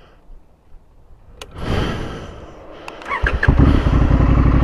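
Honda Africa Twin's parallel-twin engine being started: it cranks for about a second, catches about three seconds in, and runs steadily and loudly.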